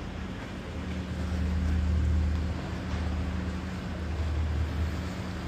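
A low, steady engine drone with a hum of several even tones, swelling a little about two seconds in.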